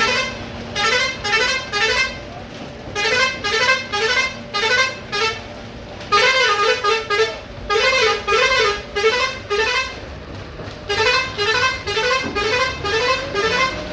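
A vehicle's musical horn plays a short warbling tune of repeated bending notes, in four bursts separated by brief pauses. A steady engine hum runs underneath, plausibly from the Ajax Fiori 4300 self-loading concrete mixer.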